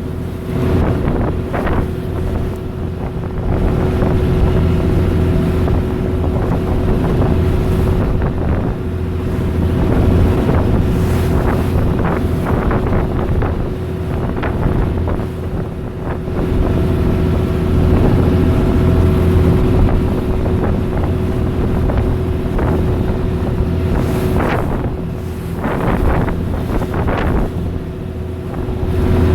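Boat engine running steadily under way, with a constant hum and wind buffeting the microphone in gusts.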